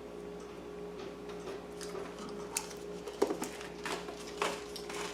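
Faint steady hum, with a few light clicks and taps of small craft supplies being handled on a work table starting about halfway through.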